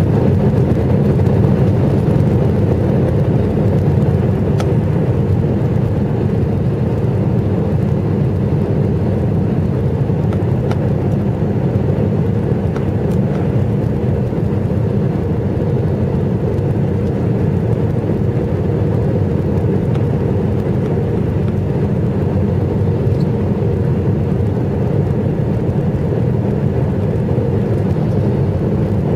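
Jet airliner cabin noise: a steady, even rumble of engines and airflow heard from a passenger seat, with no marked change throughout.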